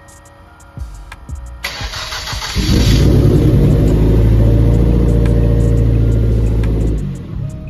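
Hyundai Genesis Coupe's freshly rebuilt turbocharged engine being started for the first time: a short burst of starter cranking, then the engine catches about two and a half seconds in and runs loudly and steadily for about four seconds before dying away near the end.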